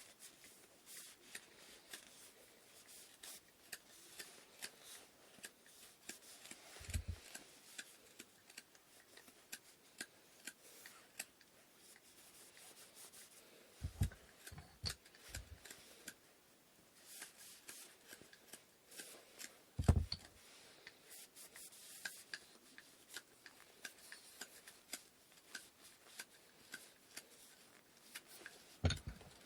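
Quiet hand work on the wooden parts of an inkle loom: light rubbing and many small scattered clicks and taps. A few short dull knocks stand out: one about a quarter of the way in, a quick cluster of three around the middle, the loudest about two-thirds of the way in, and one near the end.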